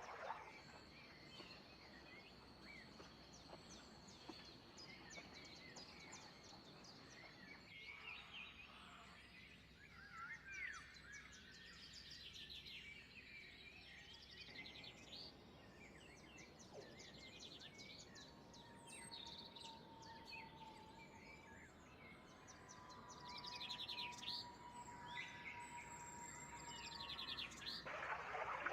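Several wild birds chirping and trilling faintly, with many short calls overlapping. A thin, steady high note runs for the first several seconds.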